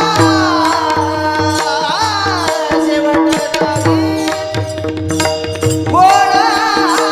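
Marathi devotional singing (gayan): a male voice sings long, ornamented held phrases over a steady drone, with hand-drum accompaniment.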